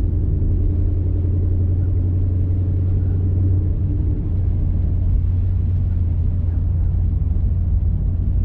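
Ford Mustang GT's V8 with an aftermarket full exhaust running steadily at low revs, a constant low drone with no revving.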